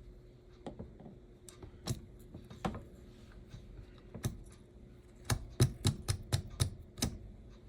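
Light clicks and taps of small slot car parts and tools being handled on a workbench, a few scattered at first, then a quick run of them from about five to seven seconds in.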